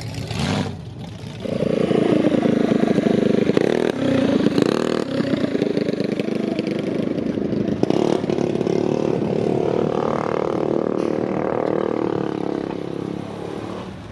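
A vehicle engine running loudly close by, starting about a second and a half in, holding a fairly steady pitch, then fading near the end.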